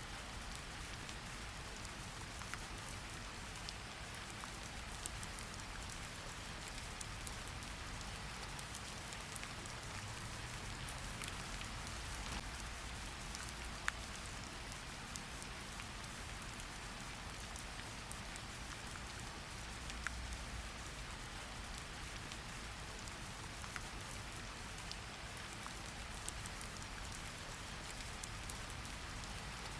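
Steady rain falling, an even hiss with scattered sharp drip ticks and a low rumble underneath.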